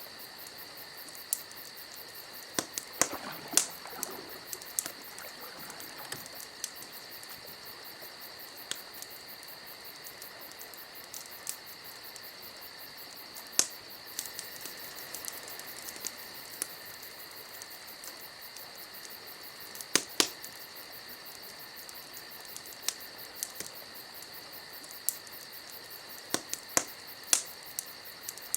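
Campfire crackling, with scattered sharp pops, the loudest about three seconds in, near the middle, and near the end. Under it a steady high, cricket-like trill.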